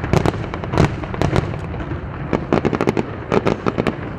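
Fireworks display: a dense, irregular run of sharp crackles and pops from bursting shells, thickest in the first second or two, over a steady low rumble.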